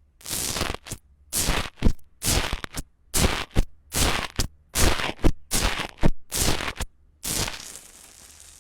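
Slime being worked by hand: about a dozen short scraping strokes, roughly two a second, that stop near the end and leave a faint hiss.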